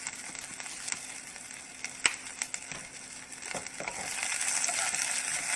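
Sliced cabbage and scallions frying in olive oil in a pan, a steady sizzle with a few sharp clicks. About three and a half seconds in, a wooden spoon starts stirring the vegetables and the sizzle grows louder.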